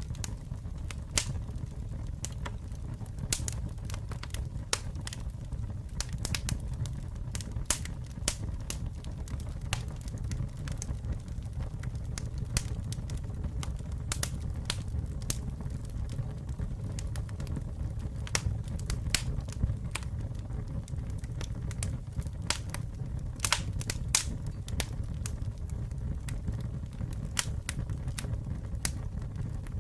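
Wood fire burning: a steady low rumble of the flames with frequent sharp, irregular crackles and pops.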